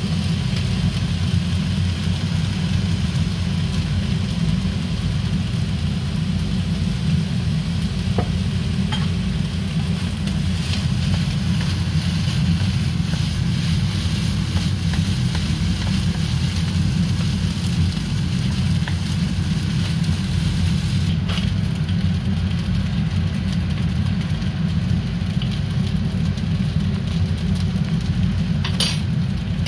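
Fried rice sizzling in a wok while it is stirred and turned with a wooden spatula, with a few light taps of the spatula against the pan. A loud, steady low rumble runs underneath throughout.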